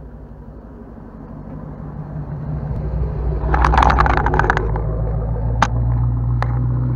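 Dodge Challenger's engine rumbling as the car drives up to and past the camera. It grows louder over the first few seconds, with a burst of crackling as it passes close by, then two sharp pops while the steady rumble carries on.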